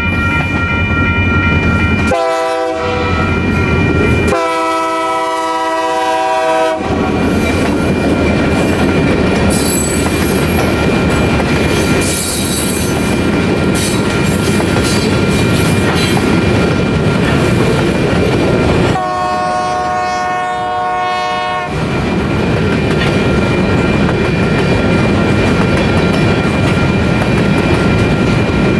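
Train passing over a grade crossing, its wheels rumbling and clicking over the rail joints, while the locomotive horn sounds a short blast about two seconds in, then a long blast, and another long blast about two-thirds of the way through. Steady high ringing tones, typical of a crossing's warning bell, carry on under it all.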